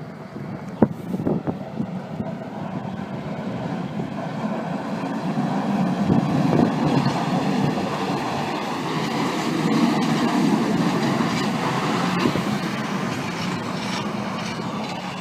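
A large vehicle going by with a long rumble that builds to its loudest about ten seconds in and then slowly fades, after a few sharp clicks at the start.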